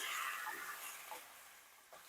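Chicken pieces sizzling in hot oil as they are stirred in the pan. The sizzle fades toward the end.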